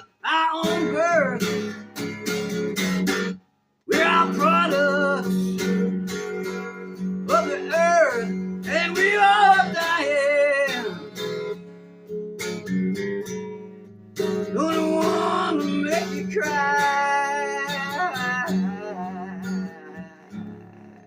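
Acoustic guitar playing a blues, strummed and picked, with a man's voice singing wordlessly over it for a stretch. The sound cuts out briefly twice near the start.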